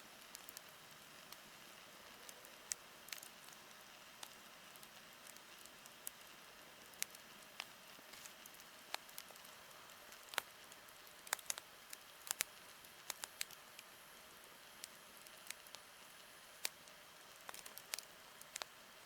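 Wood campfire crackling faintly: irregular sharp pops and snaps, sometimes in quick clusters, over a soft steady hiss.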